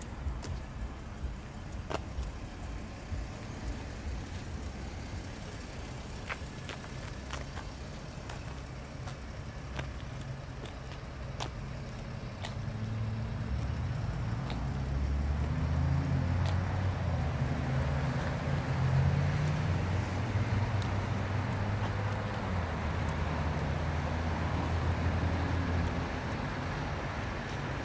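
BMW 740Li's turbocharged straight-six idling, a low steady hum that grows louder about halfway through. A few faint clicks are heard over it.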